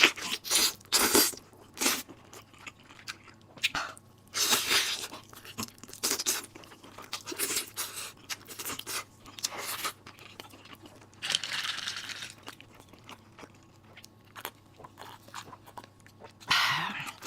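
Close-miked chewing and crunching of food: irregular sharp crunchy bites and wet mouth sounds, with a longer noisy stretch about two-thirds of the way through.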